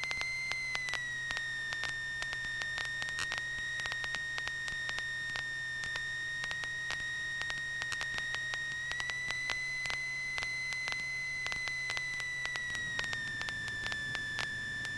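A steady high-pitched whine in the cockpit audio of a light aircraft on final approach, its pitch wavering slightly, with faint regular ticking behind it. A low hum under it stops near the end.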